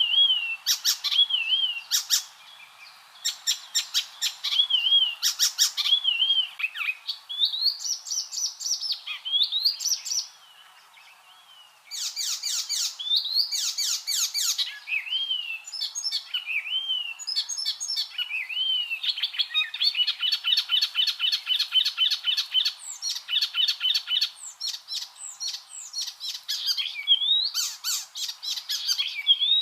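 Icterine warbler singing: a fast, varied song of repeated slurred whistles, sharp clicking notes and buzzy chattering rattles, with one short pause a little over a third of the way in.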